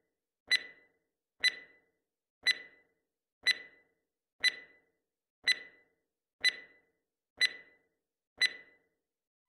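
Countdown timer beeps: nine short, high electronic beeps, one each second with silence between, counting down to the next change of workout interval.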